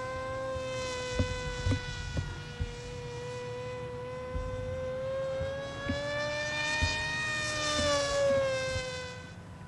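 Radio-controlled model airplane's motor and propeller in flight, a steady high buzzing whine. Its pitch rises a little about six seconds in and falls back again near the end as the plane passes. A few low thumps come in the first few seconds.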